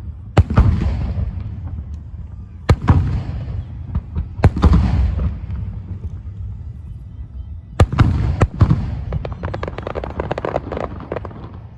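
Aerial firework shells bursting: about five loud bangs a second or more apart, each followed by a rolling rumble. Near the end comes a dense crackling of many small pops.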